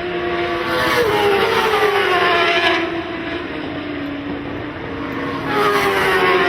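Racing motorcycles passing at speed one after another, each engine's pitch falling as it goes by. The passes are loudest about a second in and again near the end.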